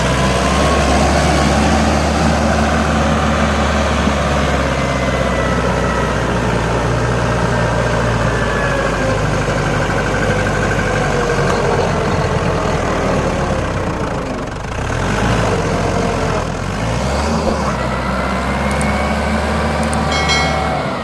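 Tractor diesel engine running steadily, its pitch drifting up and down a little, easing briefly about two-thirds through.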